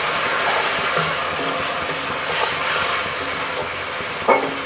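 Diced potatoes, onion and spice paste frying in oil in an aluminium kadai, sizzling steadily as a spatula stirs them, with one short knock near the end.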